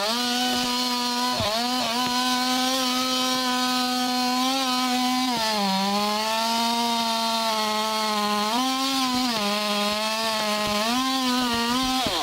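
Two-stroke chainsaw running at high revs, its pitch sagging and recovering a few times as the chain is loaded in the cut.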